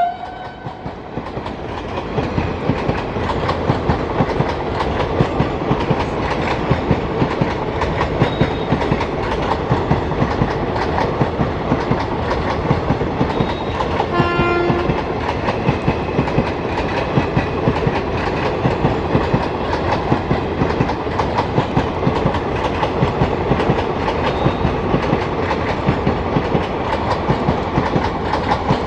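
Train coaches rolling past on the track, their wheels clattering over rail joints in a steady, rapid clickety-clack that builds over the first couple of seconds and then holds. A brief pitched tone sounds about halfway through.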